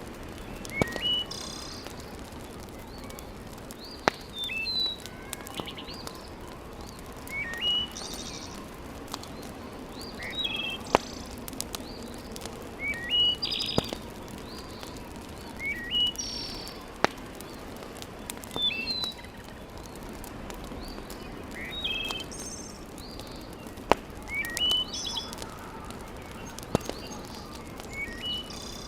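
A bird sings a short chirping phrase over and over, every two to three seconds, against a steady hiss. Now and then a sharp single pop from a crackling wood fire cuts through.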